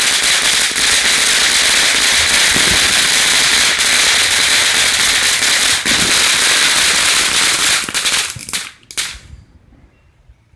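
Consumer firework going off in a loud, dense run of rapid crackling pops, dying away about nine seconds in.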